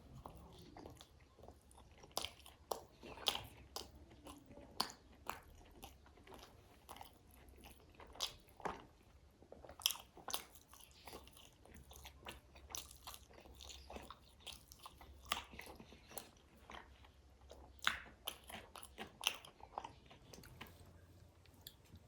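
A person biting and chewing food close to the microphone, with frequent crisp, irregular crunches.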